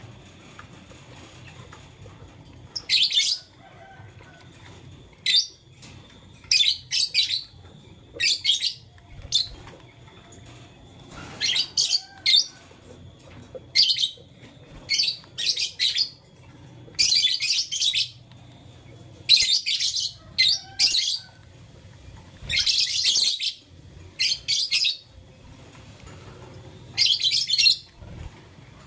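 Pet lovebird chirping in short, scratchy high-pitched bursts, each under a second, coming irregularly with brief pauses between.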